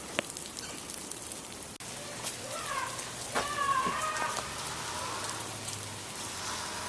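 Steady patter of falling water drops, with a faint whine rising and falling near the middle.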